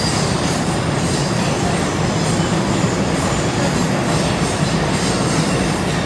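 JR East limited-express electric train running past, a steady loud noise of wheels on the rails.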